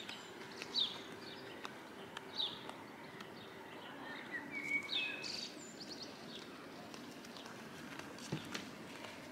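Birds chirping: a few short, high calls, most of them in the first five seconds, over faint steady outdoor background noise.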